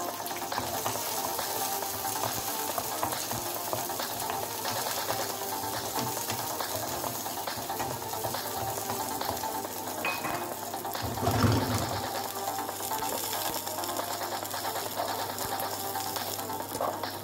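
Garlic cloves sizzling as they fry in a nonstick pan, stirred now and then with a wooden spoon. A louder low knock comes about eleven seconds in.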